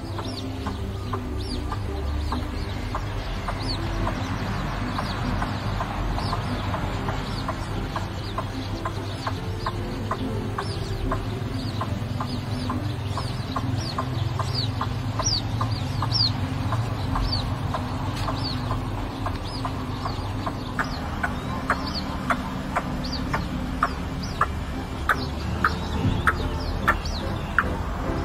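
White-breasted waterhens calling: a dense stream of short, sharp, clucking notes, which turn into a more regular, louder series in the last third, over a steady low rumble.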